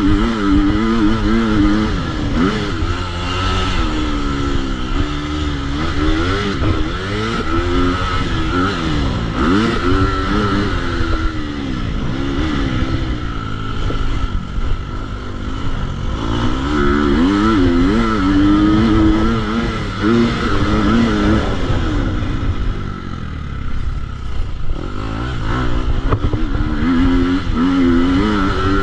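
KTM 250 SX-F motocross bike's single-cylinder four-stroke engine being ridden hard, its pitch repeatedly rising and falling as the throttle opens and closes and the rider shifts gears. It eases off for a few seconds near the end, then picks up again.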